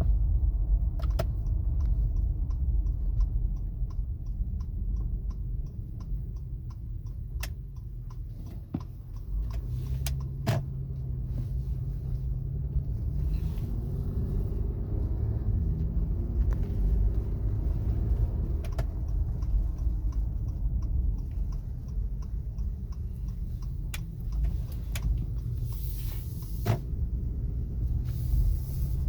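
Road and tyre rumble in the cabin of a moving 2017 Acura MDX, with a faint whine whose pitch rises as speed builds. The whine persists after lowering the tyre pressures, and the owner thinks it comes from the front passenger side. A rapid run of light ticks sounds for several seconds near the start.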